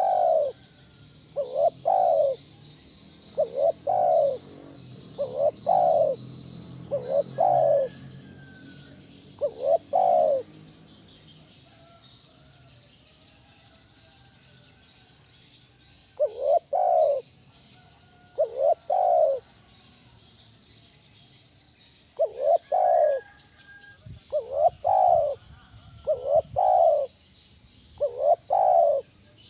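Spotted dove (tekukur) cooing loudly: a series of short, low coos, mostly in close pairs about every one to two seconds, with a pause of about five seconds midway. Faint chirps of other birds are heard underneath.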